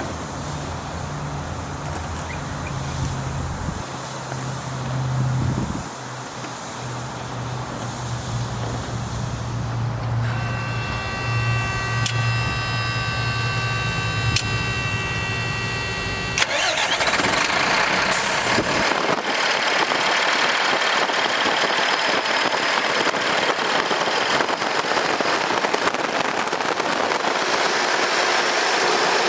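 Freightliner 114SD water truck's Cummins ISL diesel engine starting and running. A steady high pitched tone sounds from about ten to sixteen seconds in. About sixteen seconds in the sound switches suddenly to a louder, even hiss.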